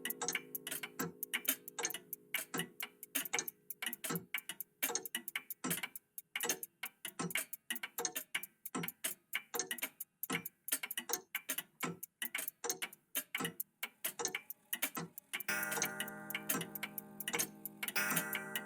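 Several old mechanical clocks ticking at once, their ticks overlapping in uneven, interlocking rhythms. A sustained chime-like ringing tone fades out over the first few seconds and rings out again about three-quarters of the way through.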